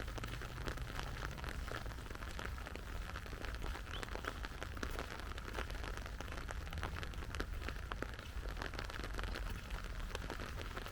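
Steady rain falling, with many close individual drops striking in quick, irregular ticks over a soft hiss, and a low steady rumble underneath.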